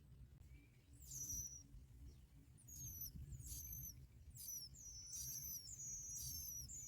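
High, thin chirps from bar-winged prinias at the nest: short repeated notes that start about a second in and come faster and closer together toward the end, over a faint low rumble.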